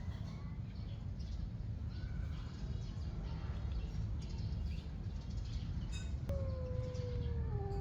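A cat gives one long meow, falling slowly in pitch, about six seconds in. Faint bird chirps and a steady low rumble lie underneath.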